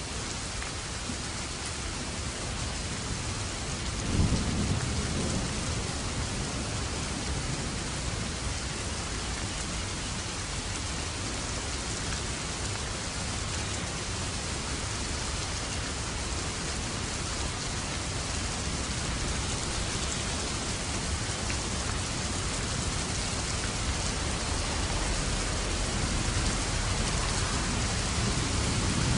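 Steady heavy rain falling, with a low thunder rumble rolling in about four seconds in and fading over a few seconds. The rain grows slightly louder near the end.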